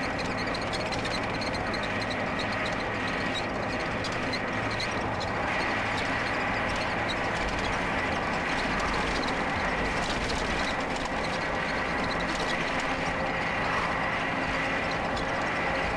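Vehicle engine and road noise, steady and unbroken, with a faint constant high-pitched whine over it.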